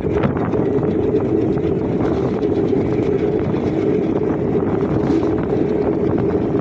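Passenger express train running at speed, heard from an open coach door: a steady rumble of wheels on the rails, with wind buffeting the microphone.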